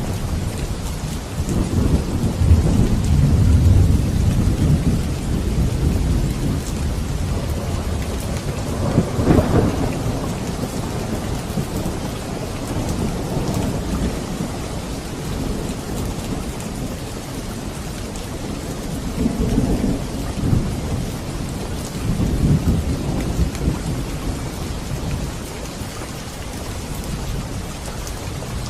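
Steady rain falling, with low thunder rumbling several times: loudest in the first few seconds, again at about a third of the way in, and twice more past the middle.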